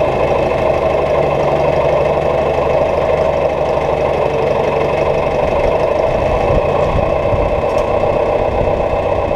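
A farm machine's engine running steadily at a constant speed.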